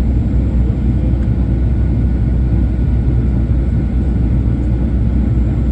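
Steady low rumble of a Boeing 737's engines and airflow, heard from inside the passenger cabin in flight.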